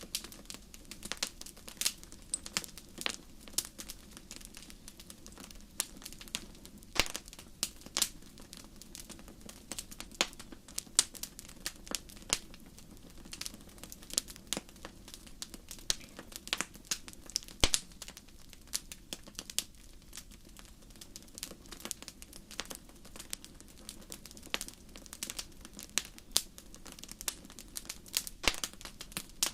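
Campfire crackling: irregular sharp pops and snaps, several a second and some much louder than others, over a steady low rush of burning.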